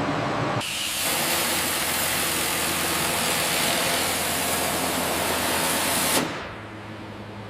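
A loud, steady hiss, like air or spray under pressure, starts abruptly about half a second in and cuts off about six seconds in, over a low, steady machine hum.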